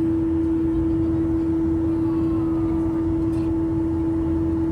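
Airliner cabin noise in flight: a steady engine drone with a constant hum over a low rumble.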